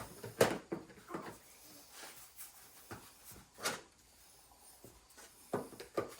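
A series of separate knocks and clacks as shelving unit parts are handled and fitted together. The loudest comes about half a second in, and there is a quick pair near the end.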